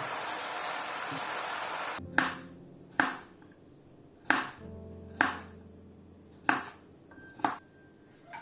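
A steady hiss that stops abruptly about two seconds in. Then six sharp clinks or taps, roughly one a second, with soft piano notes ringing under them.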